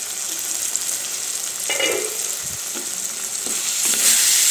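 Vegetables sizzling in a clay kadhai as its clay lid comes off, then being stirred with a wooden spatula. There are a few light knocks against the pot, and the sizzle grows louder about four seconds in.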